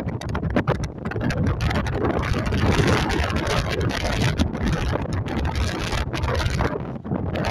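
Strong wind buffeting the microphone on a ferry's deck: a loud, gusty rush of noise with a heavy low rumble that rises and falls without a steady tone.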